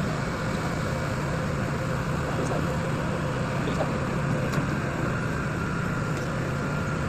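Hydraulic static pile driver (HSPD) running steadily: a continuous engine and hydraulic power-unit hum with a faint steady whine.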